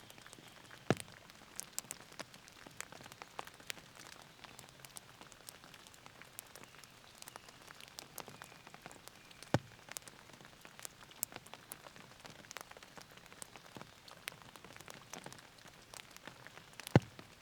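Rain falling, heard as a soft steady patter dotted with sharp taps of individual drops striking. A few drops land louder: about a second in, midway, and near the end.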